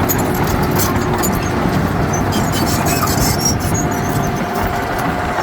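Heavy earthmoving machinery running steadily under load: dense diesel engine noise with scattered metallic clicks. A thin steady whine joins about halfway through.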